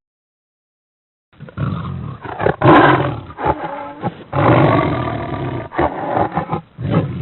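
A large wild animal roaring several times, starting after about a second and a half of silence, with the two longest roars in the middle.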